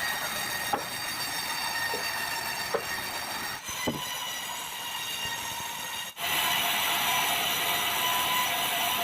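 Sawmill saw running with a steady high whine made of many ringing tones, a few sharp knocks in the first four seconds, then louder and fuller from about two-thirds of the way in.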